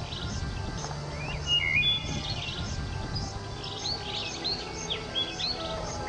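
Several birds chirping and calling together: quick rising and falling whistles, short trills and repeated chirps, over a low steady hum.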